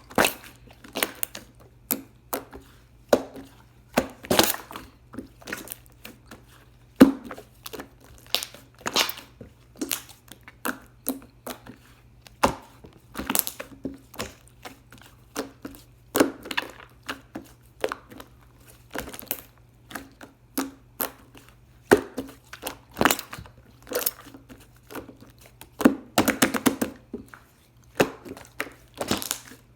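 Irregular taps, clicks and short crinkling, rustling noises of objects being handled close up, over a steady low hum.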